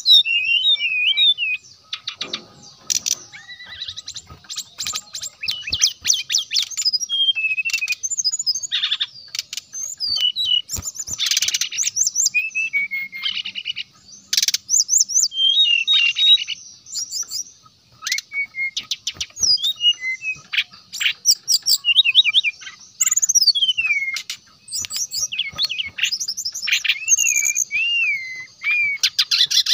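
Brown-chested jungle flycatcher (sikatan rimba dada coklat) singing a loud, fast, varied song of rapid chattering trills and whistled up-and-down slurs, in bouts broken by short pauses.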